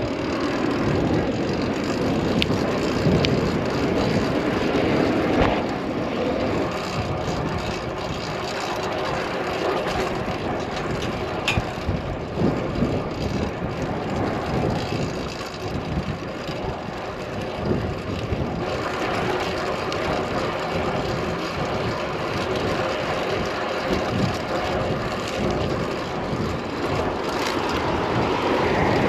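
Steady rush of riding noise from a fixed-gear track bike ridden fast: air and tyre noise that swells and eases.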